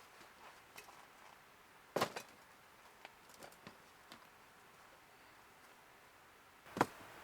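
Quiet, with scattered faint clicks and two sharper knocks, one about two seconds in and one near the end.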